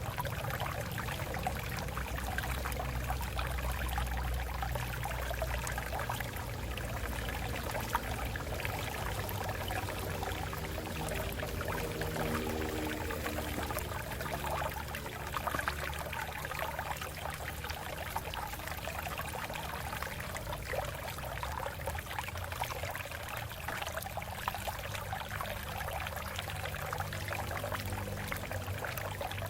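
Water running steadily over rocks in a shallow stream, a continuous splashing and trickling.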